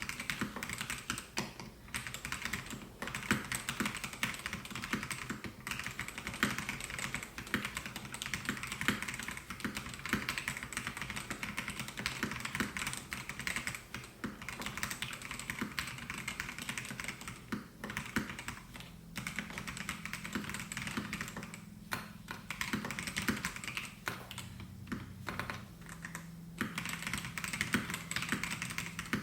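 Melgeek Mojo68 mechanical keyboard with Pro white switches being typed on continuously: a fast, dense run of key clacks with a few short pauses.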